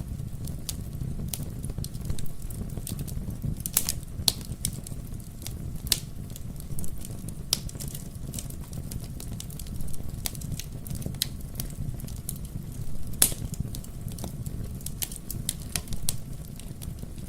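Wood fire crackling in a fireplace: irregular sharp snaps and pops over a steady low rumble of burning, with one louder snap about 13 seconds in.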